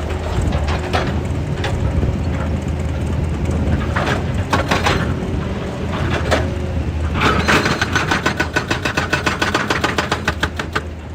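Excavator's diesel engine running steadily with scattered metal clanks and knocks; about seven seconds in, a rapid, even run of sharp knocks, about nine a second, goes on for some four seconds.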